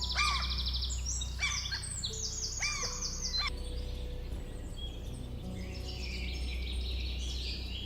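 Birds calling: a call made of a fast high trill with a looping whistle comes three times about a second apart in the first half, then a looser jumble of chirps follows, over a low steady hum.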